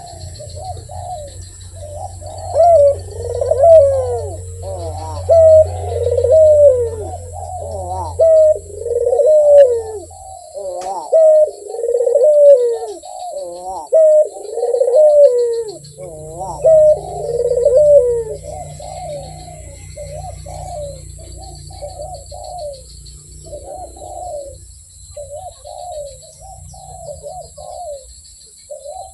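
Barbary dove (puter) cooing over and over, each coo a short call that rises and falls in pitch. The coos are loud at first and grow softer after about eighteen seconds, over a low steady hum, with faint chirps of smaller birds higher up.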